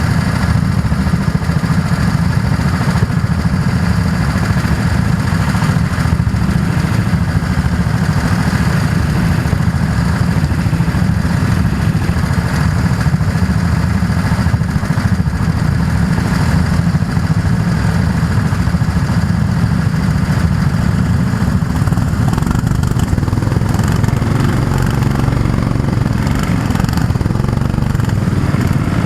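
Go-kart engine running steadily and loudly, heard close to the kart.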